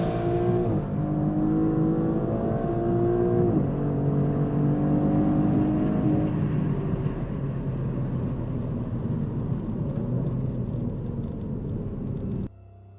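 2023 Maserati GranTurismo's twin-turbo V6 accelerating hard through the gears. Its pitch climbs and drops at three upshifts, then is buried under rising wind and tyre noise at high speed, before cutting off suddenly near the end.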